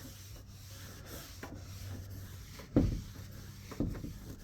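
A cloth rubbing across a TV screen as it is wiped dry, with two dull thumps a second apart near the end.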